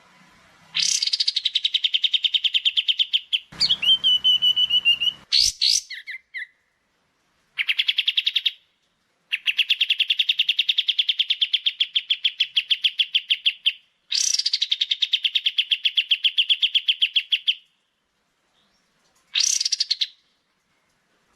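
Small songbirds singing bursts of very fast, rapidly repeated chattering notes, each burst lasting a few seconds with short pauses between. About four seconds in, a single held whistled note sounds over a faint low hum. This is a bird-song 'masteran' recording of the kind used to tutor caged songbirds.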